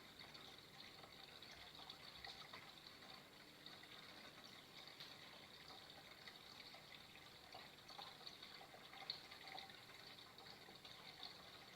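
Faint, steady sound of flowing water, trickling and splashing evenly.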